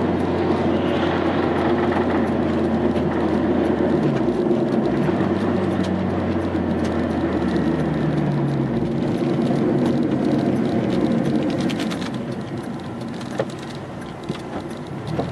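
A vehicle running with a steady low engine hum that changes about nine seconds in and grows quieter from about twelve seconds, with a few sharp clicks near the end.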